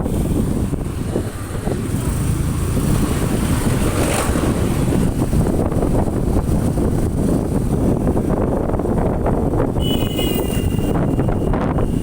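Wind rushing over the microphone of a moving motorcycle, with road and engine noise underneath. A vehicle horn beeps briefly near the end.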